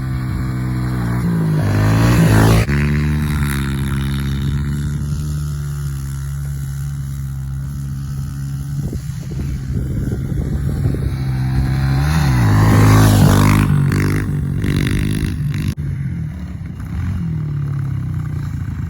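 Small single-cylinder pit bike engine running, revved up to a loud peak about two seconds in and suddenly dropping off, then revving up again near the middle and easing back.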